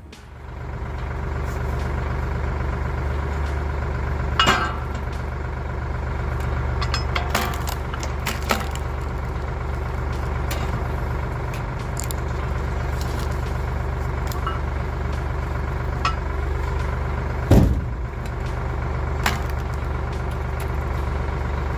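Firewood processor's engine running steadily under load, with several sharp knocks of wood being cut and split and one heavier thump near the end.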